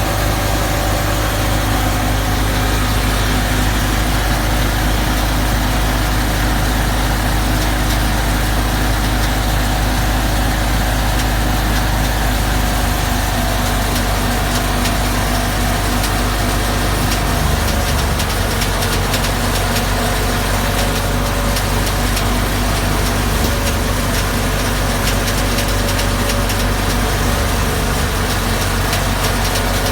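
Fiat 480 tractor's diesel engine running steadily at constant speed while driving a threshing machine, with the thresher's machinery running along with it.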